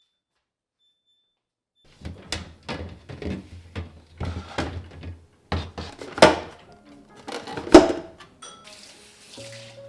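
A run of sharp knocks and clunks, about a dozen, as containers and shelves are handled, taken out of a refrigerator and set down. Two clunks past the middle are the loudest. Soft music comes in near the end.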